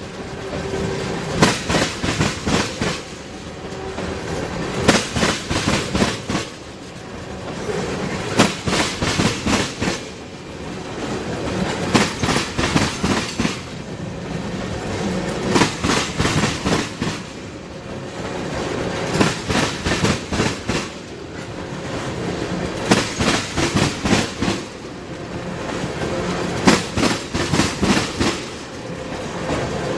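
Freight train of tank cars rolling past a level crossing, the wheels clattering over the rail joints in clusters of clicks every few seconds as each car's trucks go by, over a steady rumble.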